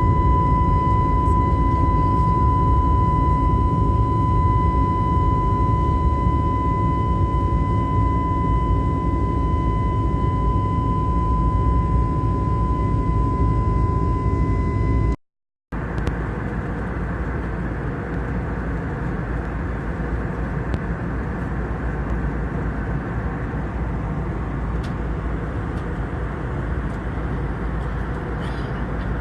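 Steady engine noise of an airliner heard from inside the cabin: a low drone with a high steady whine. About halfway through, the sound cuts out briefly. It comes back as a steady rushing roar without the whine.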